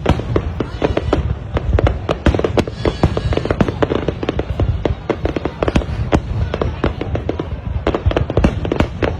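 Aerial fireworks going off in rapid succession: a dense stream of sharp bangs and crackles, several a second.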